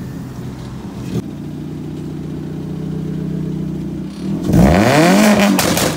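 Chevrolet Cruze engine idling, then revved hard about four seconds in, the pitch climbing, holding and falling away, with a few sharp exhaust pops as it drops back.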